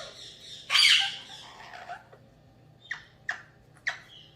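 Parrot calling: one loud harsh squawk about a second in, then three short sharp calls in quick succession near the end.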